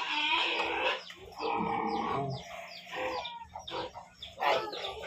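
Chickens clucking, with many short, overlapping calls.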